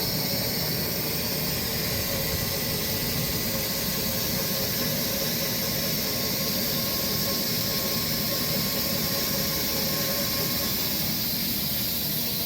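Sawmill running and cutting through a walnut log: a steady, even mechanical whir and hiss that holds one level throughout.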